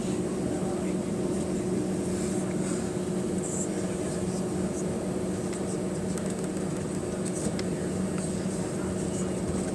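Airbus A320 cabin noise from a rear seat: the steady drone of the CFM56-5A engines and airflow, with an even low hum and no change in pitch.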